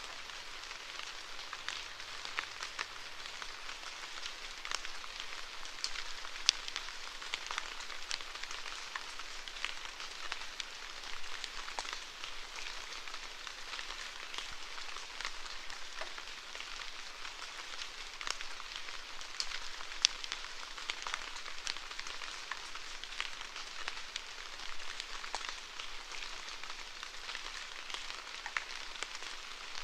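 Steady rain falling, a constant hiss of rain with many individual drops ticking sharply close by; one drop hits louder about 20 seconds in.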